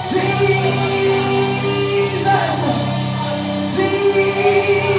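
Live gospel worship music: the band holds sustained chords while a worship leader's voice sings out over it, calling 'Jesus' about halfway through.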